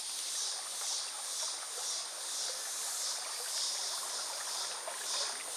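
Stream water running steadily, with insects chirping in pulses about twice a second over a steady high-pitched buzz.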